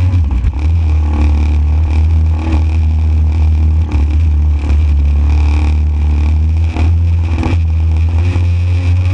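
Motorised jet surfboard's engine running steadily at speed, with brief dips in level.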